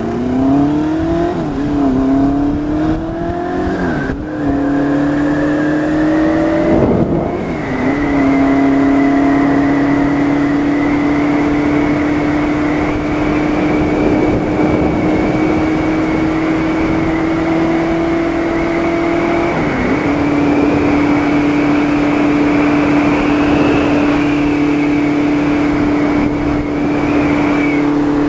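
A vehicle's engine pulling up through the gears, its pitch climbing and dropping at each of about three shifts, then holding a steady cruising drone over road and wind noise. The engine briefly eases off near the end.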